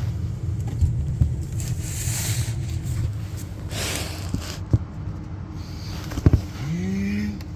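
Carrier gas furnace running with a steady low mechanical hum, a few sharp clicks and some brief hiss. Near the end a short tone rises in pitch and then holds.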